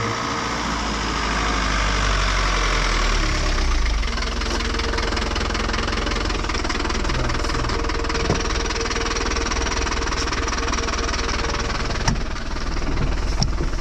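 Engine of a utility SUV running as the vehicle pulls up and then idles, with a sharp click near the end.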